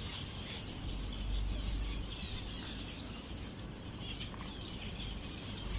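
Many small aviary birds chirping and twittering at once in short, overlapping calls, with a low rumble underneath.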